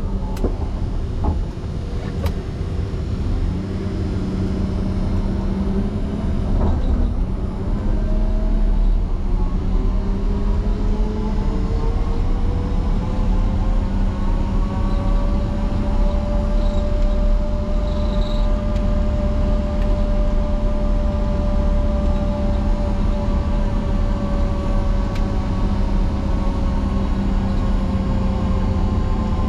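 Diesel motor grader, likely a Caterpillar 140M, running steadily under load with a deep rumble; about nine seconds in a whine climbs in pitch, holds, and eases slightly down near the end.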